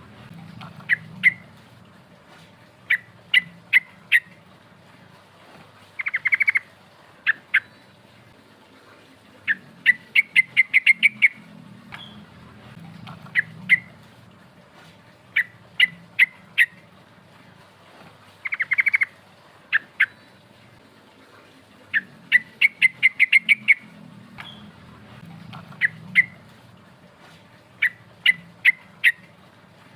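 Yellow-vented bulbul (trucukan) singing: short bursts of sharp chirping notes every two to three seconds, some run together into quick rolling trills.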